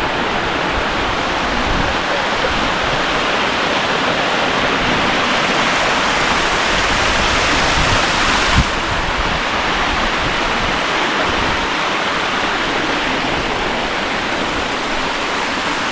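Waterfall: a steady, loud rush of falling water close by. There is a brief thump about halfway, after which the hiss sounds slightly duller.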